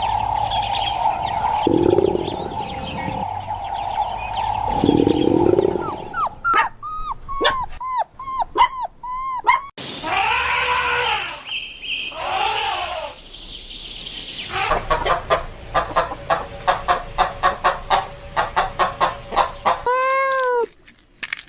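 A sequence of different recorded animal calls, one after another: chirping over a steady hum at first, then repeated short arched calls, then a fast run of calls, with chicken or rooster sounds among them.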